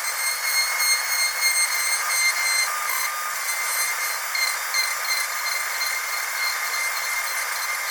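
Dentist's drill running steadily with a high-pitched whine of several even tones over a hiss, with no low rumble beneath.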